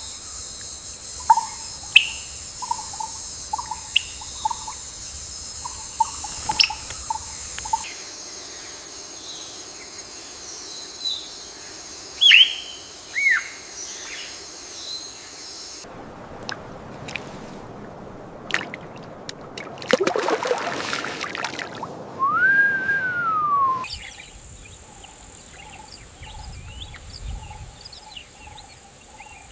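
Wild birds chirping and whistling in short scattered calls over a changing natural background. There is a steady high hum for the first several seconds, a stretch of rushing noise past the middle, and one long whistle that rises, holds and falls. The background changes abruptly about every eight seconds.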